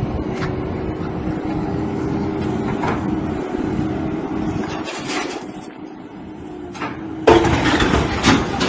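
A vehicle engine running steadily with a held tone, then a sudden loud crash about seven seconds in, followed by another impact about a second later.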